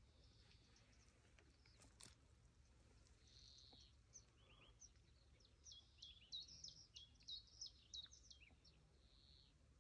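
Faint songbird chirping: a run of quick, high chirps and short trills that grows busier from about four seconds in, over a faint low rumble.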